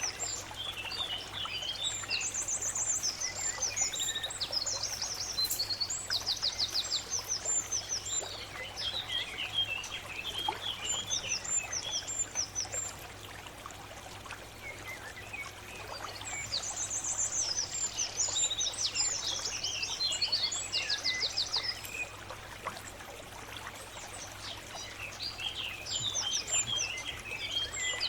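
Birds chirping and singing in fast high trills that come in clusters every few seconds, over a steady hiss like running water.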